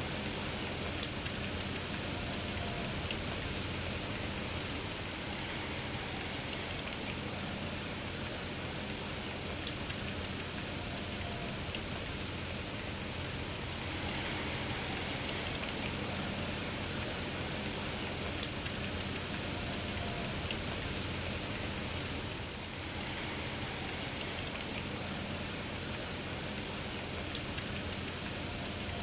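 Steady rain falling, an even hiss, with a sharp tick standing out four times, about every nine seconds.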